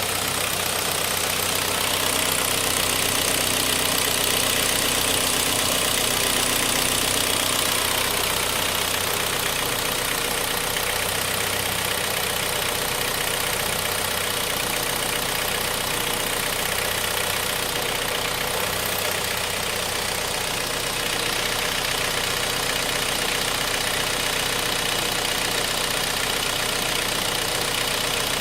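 Hyundai Sonata Lotze Innovation's Theta II MPI four-cylinder engine, about 70,000 km old, idling steadily with a constant mechanical clatter that the owner asks may be knocking.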